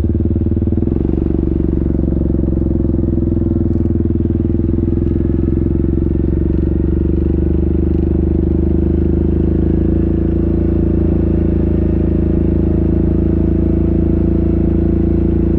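Yamaha Grizzly 700 ATV's single-cylinder engine running steadily under way. Its pitch creeps slowly upward over the second half.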